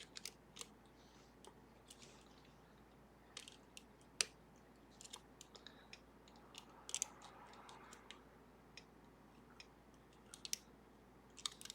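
Small, irregular metallic clicks and ticks of a pick working the levers of a Sargent and Greenleaf 4440 safety deposit box lever lock. The clicks are scattered, with one sharper click about four seconds in.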